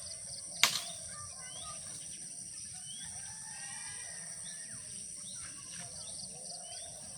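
Outdoor ambience of birds chirping over a steady high-pitched insect drone. A single sharp click, the loudest sound, comes just under a second in.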